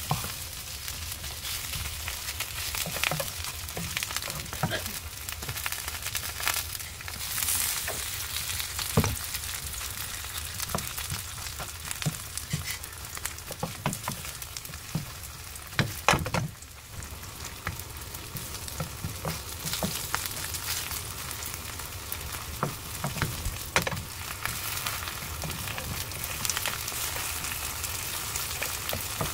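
Batter-coated napa cabbage leaves sizzling in oil in a frying pan, with scattered taps and scrapes of a wooden spatula against the pan. There is a brief cluster of louder knocks a little past halfway.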